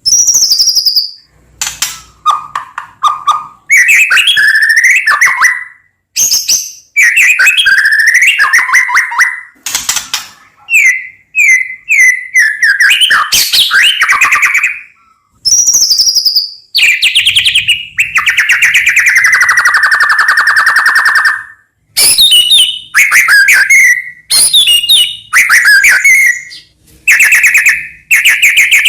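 White-rumped shama (murai batu) singing a loud, varied song: whistled notes and fast trilled phrases, some higher and some lower, following one another with short pauses between them.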